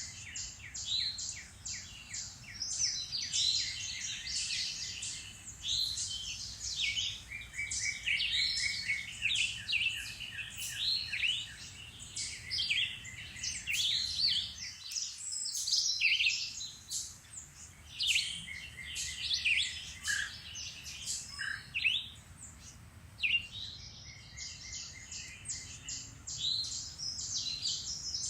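Many songbirds singing at once: a dense, overlapping chorus of quick chirps and fast trills, thinning briefly about halfway through.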